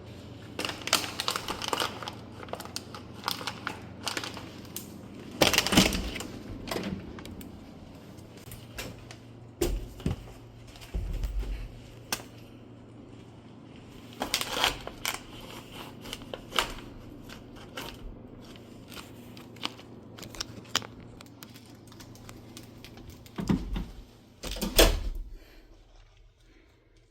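Handling noise in a small room: irregular clicks, taps and knocks of objects being moved, with louder clatters about a third of the way in, around halfway, and just before the end.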